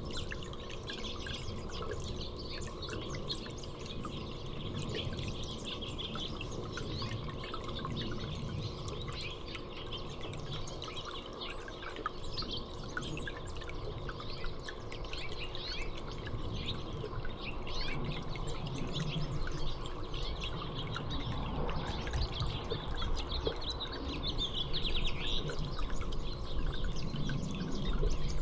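Small songbirds chirping and twittering many times over a steady trickle of water.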